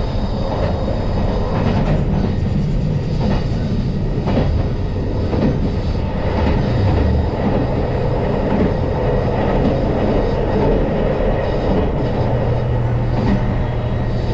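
JR Shikoku 2700 series diesel railcar running along the line: a steady engine and running drone, with the wheels clacking over rail joints every second or so.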